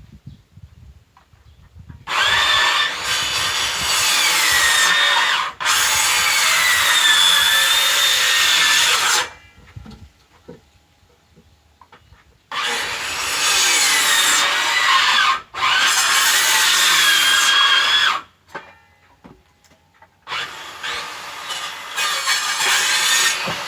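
Electric power saw cutting firewood in three runs of several seconds, each briefly broken partway through. The motor's whine dips in pitch and recovers as the blade bites into the wood.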